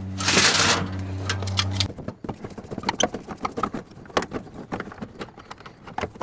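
Irregular small clicks, taps and knocks of a screwdriver and metal dash trim being worked loose while removing a car's ashtray. A steady low hum and a short hissy burst come first, and the hum cuts off suddenly about two seconds in.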